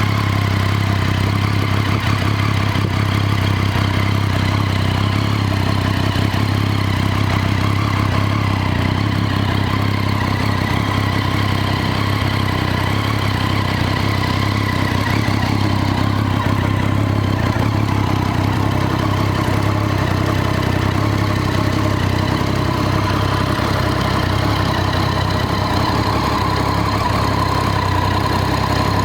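Triumph Street Triple 675's inline three-cylinder engine idling steadily.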